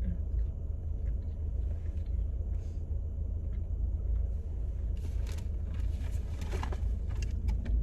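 Steady low rumble of a car's cabin while driving, road and engine noise, with a couple of brief light sounds in the second half.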